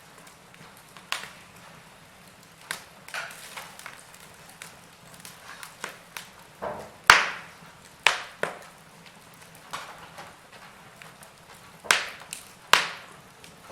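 Wood fire crackling in a fireplace: irregular sharp pops and snaps over a soft hiss, the loudest pops about seven, eight and twelve seconds in.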